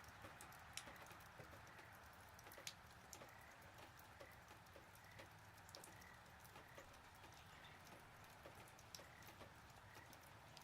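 Near silence: faint background hiss with scattered, irregular soft ticks.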